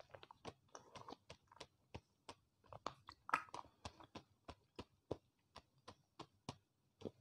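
Faint chewing of soft, juicy dragon fruit flesh: a run of short, wet mouth clicks, about two or three a second.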